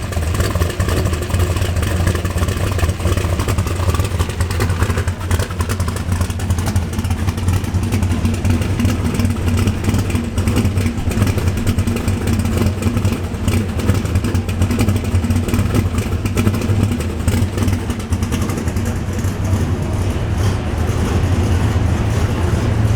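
Muscle car V8 exhaust running steadily at low revs, a deep, loud, even note without any sharp revving.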